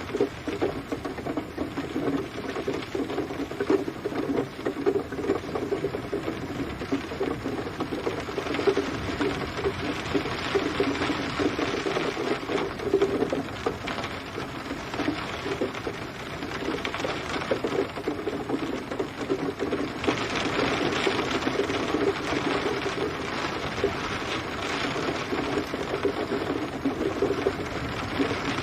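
Steady rain with a dense patter of drops striking a surface, the hiss growing a little brighter about two-thirds of the way through.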